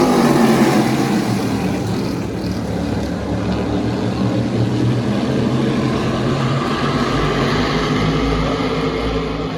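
Engine running, its pitch falling over the first two seconds and then holding steady.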